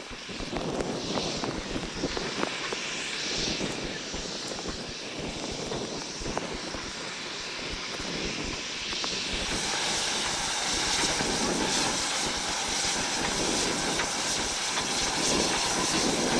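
Narrow-gauge (75 cm) steam locomotive hauling empty coal wagons, approaching in heavy rain: a steady rumble mixed with the hiss of the rain, growing gradually louder and fuller from about halfway through.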